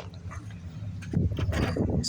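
Handling noise of a camera being moved and set down: a quick run of clicks, knocks and rattles starting about a second in, over a low steady rumble of wind and traffic.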